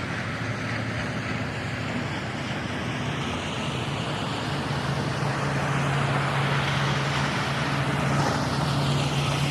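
A motor vehicle running amid road noise, growing louder, with a steady low engine hum coming in about halfway.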